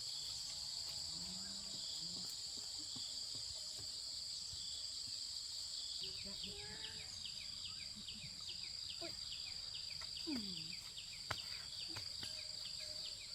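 Steady, high-pitched chorus of insects such as crickets or cicadas. About halfway through, a rapid run of short falling chirps lasts a few seconds.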